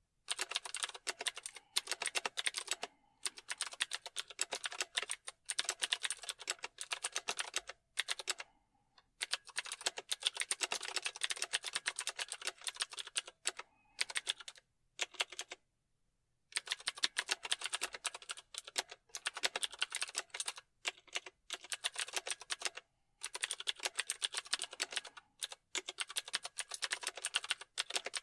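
Computer keyboard typing: fast runs of key clicks lasting a second or two, broken by short pauses.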